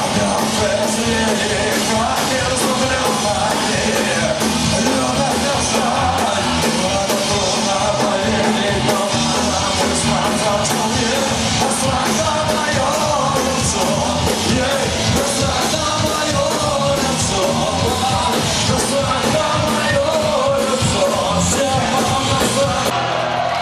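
Live punk rock band playing loud and dense, electric guitars and drums going without a break, with shouted vocals in the mix.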